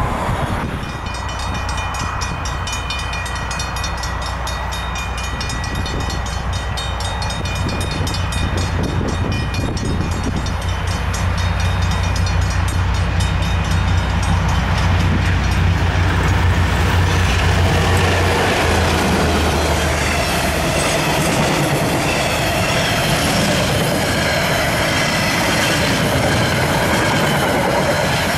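Freight train hauled by DC and DXB class diesel-electric locomotives approaching and passing: a low diesel engine drone with a steady high ringing over it for the first half. About two-thirds of the way in, the engine drone fades. The wagons then roll past with a louder, even clatter of wheels on rail.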